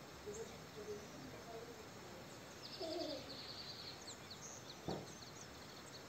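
Faint wild birdsong around a garden bird feeder: scattered high chirps and a short rapid trill about halfway through, over a steady outdoor hush. A single short knock comes about five seconds in.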